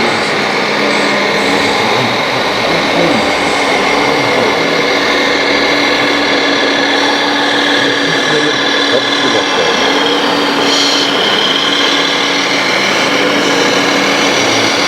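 Electric hydraulic pumps of RC scale excavators whining steadily as the models work, the whine briefly breaking and resuming a couple of times.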